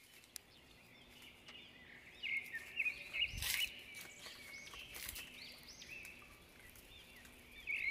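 Small birds chirping, repeated short high calls. A single brief knock comes about three and a half seconds in.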